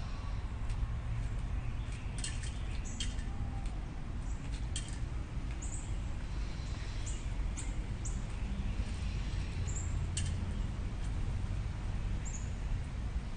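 Small bird giving short, very high chirps every second or so, several sliding down in pitch, over a steady low outdoor rumble.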